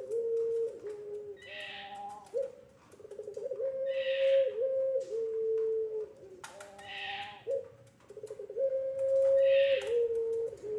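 Puter pelung doves giving long, drawn-out coos. Each coo is held on one note, then drops a step lower, and the calls repeat and overlap every two to three seconds.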